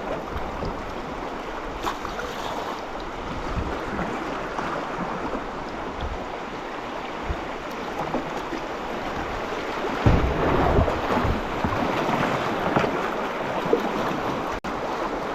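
River water running and splashing around a kayak, with wind buffeting the microphone. A few heavier low thumps come about ten seconds in.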